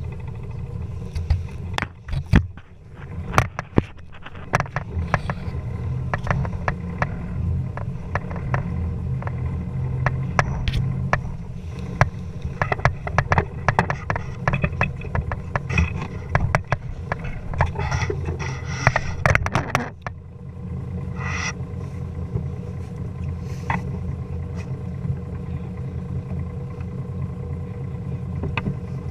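An engine running steadily with a low drone, overlaid by many sharp clicks and knocks for most of the first twenty seconds, which then thin out.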